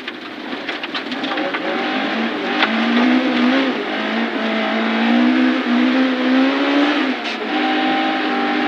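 Rally car engine pulling hard at full throttle on a fast stretch, its note climbing steadily and breaking twice for upshifts, about three and a half and seven seconds in, heard from inside the car over steady tyre and road noise.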